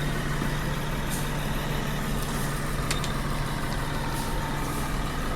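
Scania K310 coach engine idling steadily, with a few faint clicks.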